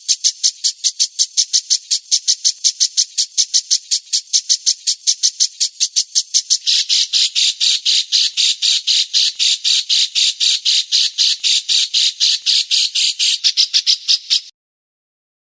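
A caged songbird's harsh, rapid repeated call, about five or six notes a second in an unbroken even run, with a slight change in tone about seven seconds in; it stops abruptly near the end.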